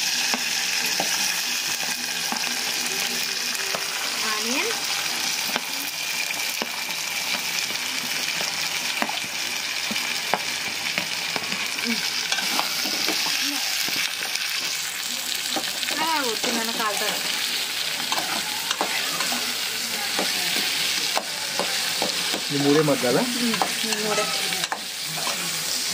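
Green chillies, tomato and onion sizzling steadily in hot oil in an aluminium pot, with a metal spoon clicking and scraping against the pot as they are stirred.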